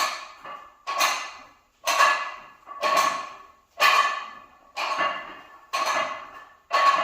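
Forceful breaths blown out about once a second, each starting sharply and fading, in time with the reps of a 135-pound close-grip bench press.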